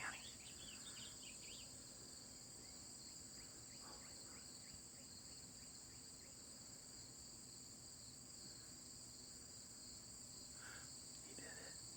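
Steady, high-pitched insect chorus trilling without a break, with a few faint short chirps in the first second or so.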